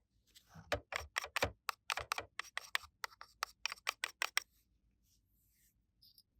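A quick, irregular run of sharp little clicks and taps of small hard objects, about five a second, stopping about four and a half seconds in.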